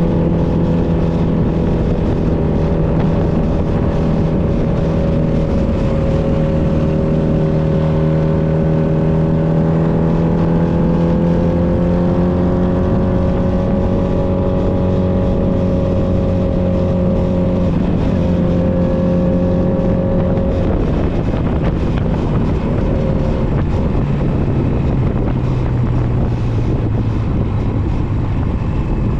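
Honda Nighthawk 250's air-cooled parallel-twin engine running under way at a steady speed. Its note rises slightly, then drops to a lower pitch about three-quarters of the way through.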